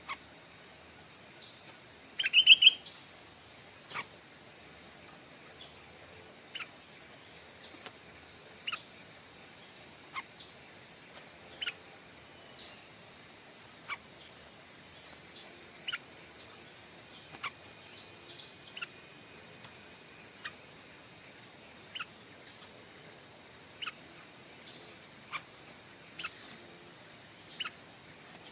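Stripe-throated bulbul calling: a loud, quick warbled phrase about two seconds in, then short, sharp single call notes repeated every second or two.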